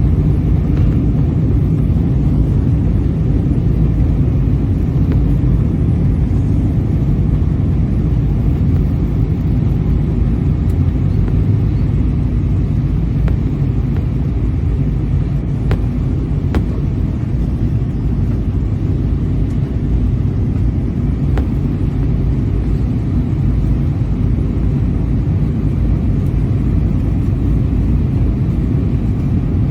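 Steady low rumble of an Airbus A320-232 in flight, heard inside the cabin near the rear: engine and airflow noise from its IAE V2500 engines, holding even throughout.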